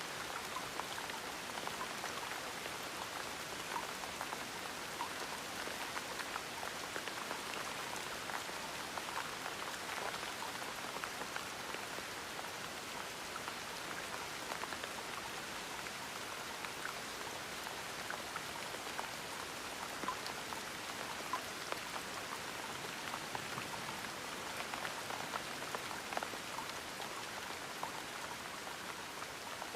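Steady gentle rain: an even hiss with many small drops pattering close by.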